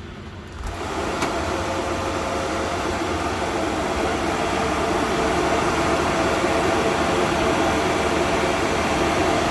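Cooling fans of several Antminer ASIC crypto miners running hard: a loud, steady rushing hum with a faint whine in it. The noise jumps up sharply within the first second, with a short click just after, then holds.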